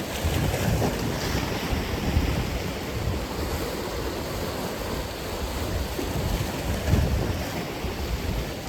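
Atlantic Ocean surf breaking on the shore: a continuous wash of waves that swells and eases a few times, with low wind rumble on the microphone.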